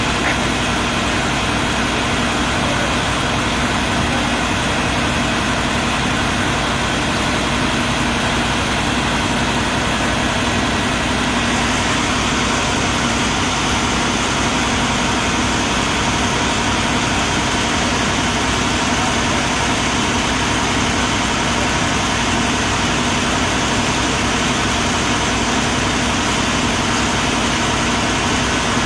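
A vehicle engine idling steadily, a constant hum that does not change.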